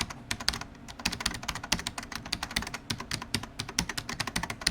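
Rapid typing on a keyboard: a quick, uneven run of key clicks, many strokes a second.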